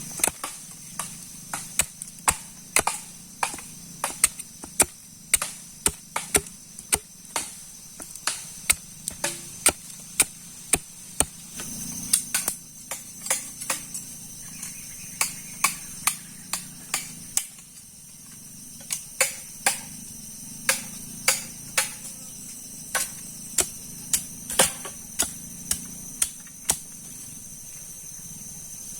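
Insects chirping steadily, with a run of sharp knocks about twice a second over them that pauses briefly just past the middle.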